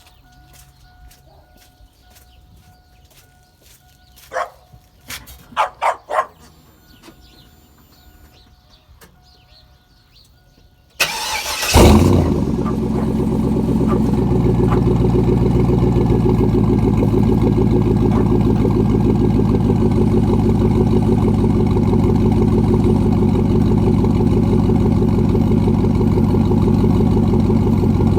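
A few clicks and knocks, then about eleven seconds in the straight-piped, side-exit exhaust of a 2000 GMC truck comes to life: a brief crank as it fires on a cold start, a flare in revs, then a steady loud idle.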